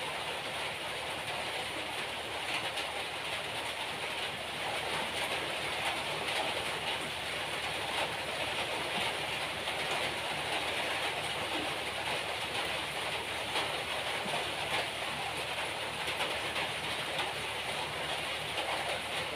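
Steady hiss of heavy rain falling, with a few faint taps here and there as eggplant slices are cut on a boti blade.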